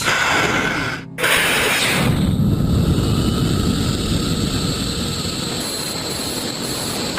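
Rocket motor firing at launch: a steady, loud rushing noise with a deep rumble underneath, after a brief break about a second in.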